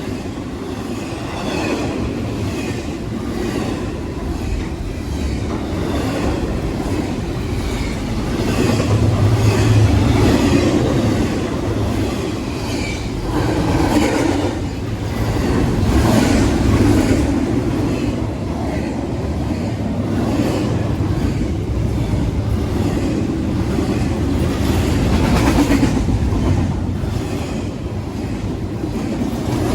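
Freight train rolling past: a continuous rumble of wheels and cars, with steady clickety-clack as the wheels cross rail joints. It swells a few times as heavier cars go by.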